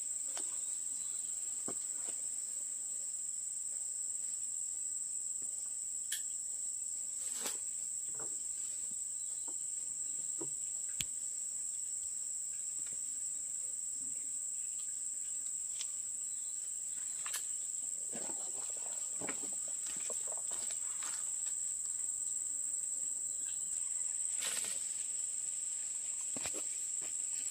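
Steady high-pitched chirring of crickets, with scattered small clicks and rustles, a cluster of them about two-thirds of the way through.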